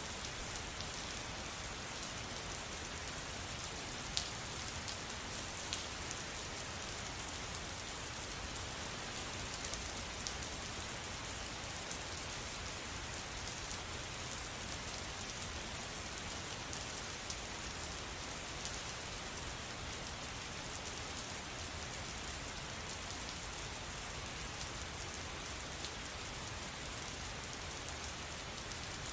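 Steady rain falling, an even hiss with scattered individual drops ticking sharply, one a little louder about four seconds in.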